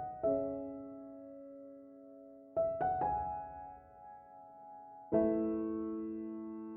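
Background piano music: slow, sustained chords struck three times and left to ring and fade.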